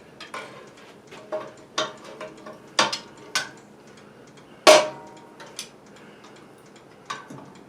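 Scattered clicks and light metallic knocks of small-engine parts and hand tools being handled, some with a brief ring. The loudest is a sharp knock about five seconds in.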